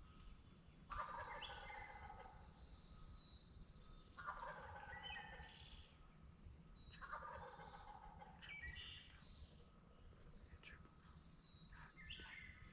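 Wild turkey gobbler gobbling three times, each gobble about a second long: about a second in, about four seconds in and nearly seven seconds in. A songbird gives short, sharp, high chirps about once a second throughout, louder at their peaks than the gobbles.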